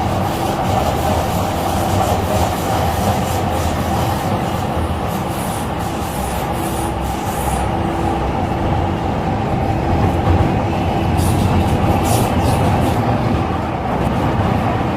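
An MTR C-Train electric metro train running between stations, heard from inside the car: steady rail and wheel rumble with a constant motor hum, and a few light clicks from the track about eleven seconds in.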